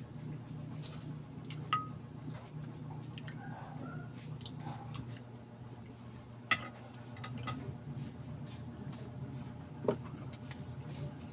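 Close-up chewing of balut, soft and wet, with a few sharp clinks of a metal spoon against a glass dish of vinegar, over a steady low hum.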